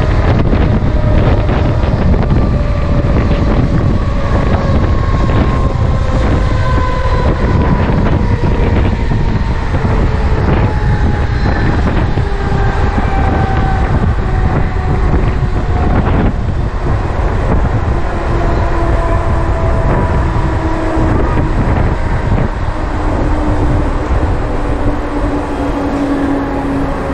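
Mumbai suburban electric local train running on the rails, heard from the open doorway: a steady loud rumble with wheel clatter and wind on the microphone. A whine runs through it and falls slowly in pitch.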